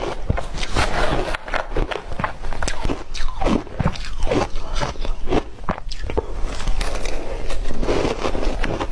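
Ice being bitten and chewed close to the microphone, with a dense run of irregular sharp crunches and cracks.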